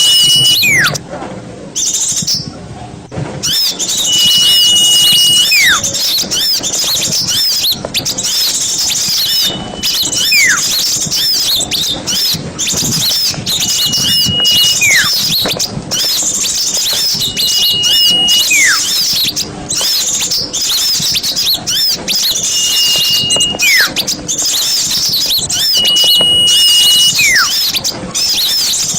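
Recorded small-songbird song for masteran training: dense, fast high twittering throughout. Over it, a repeated phrase of one held high whistle followed by a falling whistle comes back about every four seconds.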